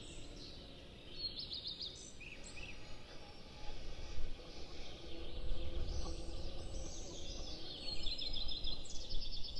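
Small songbirds singing short trills and chirps, with a burst of trills a little after the start and another near the end, over a low rumbling background noise.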